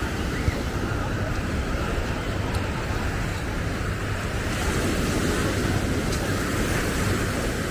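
Ocean surf washing onto the beach, a steady rush, with wind buffeting the microphone as a low rumble.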